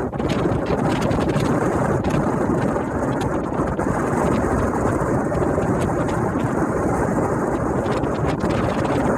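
Steady wind rushing and buffeting over the microphone on a ferry under way, over a low rumble of the ship moving through the sea.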